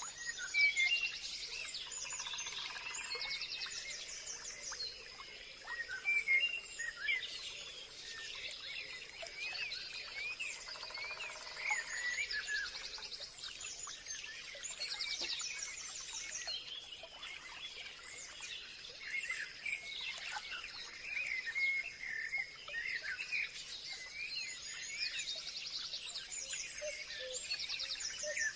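Forest ambience full of many birds singing and chirping, with overlapping short whistles and rapid trills and a faint steady insect drone.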